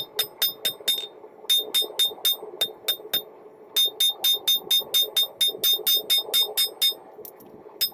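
Hand hammer striking hot rebar steel on an anvil, in quick even runs of about five blows a second with short pauses between runs, each blow giving a bright metallic ring.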